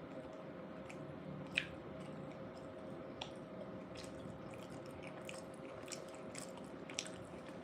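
Close-miked chewing of a bean burrito: faint, wet mouth clicks and smacks, with a sharper smack about a second and a half in and another near the end.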